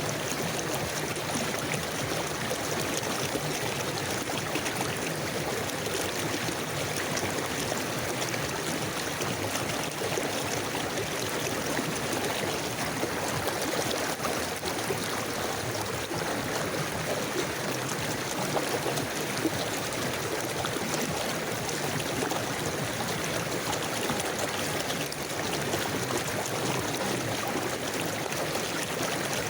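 River water flowing steadily over stones: a continuous rushing babble with fine trickling and gurgling detail.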